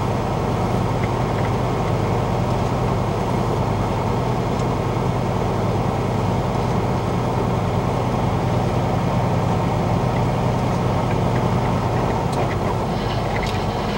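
Heavily loaded semi truck's diesel engine running steadily at about 45 mph, heard from inside the cab, with a constant low drone and road noise.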